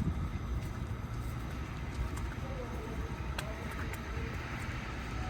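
City street traffic: a steady low rumble of passing vehicles, with a faint steady high hum and a few light ticks.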